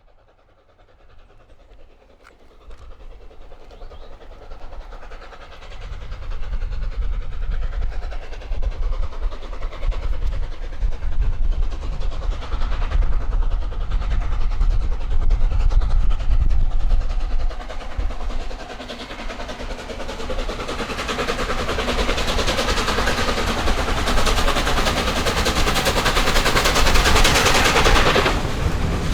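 LNER A4 Pacific steam locomotive working a train, growing louder over the first several seconds and staying loud as it comes by. The noise is brightest toward the end and thins suddenly about a second before the end.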